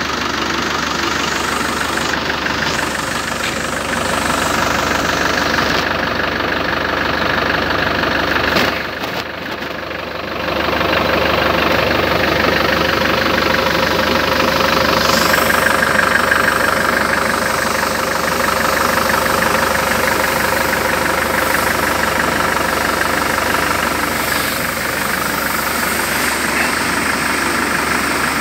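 Land Rover Defender 110's engine idling steadily, briefly muffled and quieter about nine seconds in.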